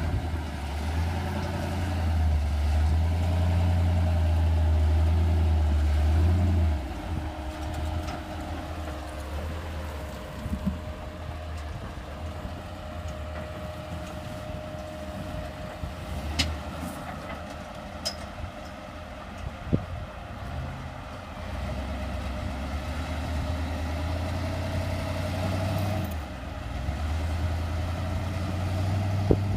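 Rock-crawling buggy's engine working under load as it climbs rock ledges: strong for about the first seven seconds, easing off through the middle, then building again near the end. A few sharp knocks come in the middle.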